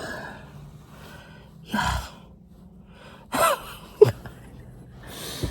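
A woman's sharp, breathy gasps and a short falling-pitched cry, with a sharp knock about four seconds in.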